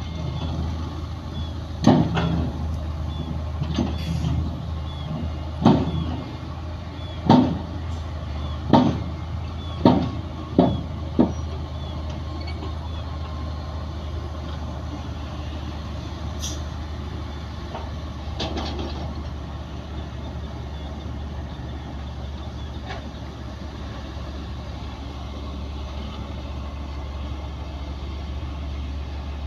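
Heavy diesel earthmoving machinery running steadily at a low hum, with a series of sharp metallic clanks and knocks in the first half, then just the engine.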